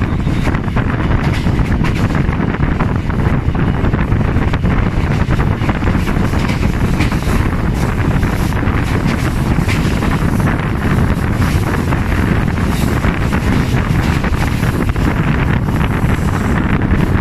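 Passenger train carriage running at speed, heard at an open window: a steady rush of wind on the microphone over the low rumble of the train on the rails.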